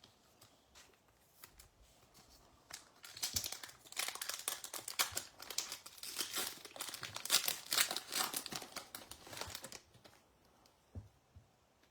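A trading-card pack's foil wrapper being torn open and crinkled by hand, with dense crackling for about seven seconds starting a few seconds in.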